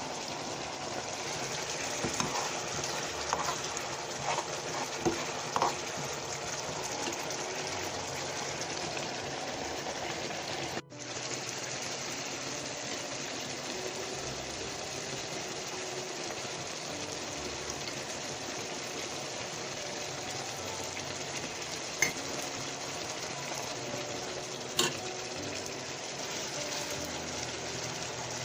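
Food sizzling steadily in a frying pan, with a couple of sharp clinks about two-thirds of the way through.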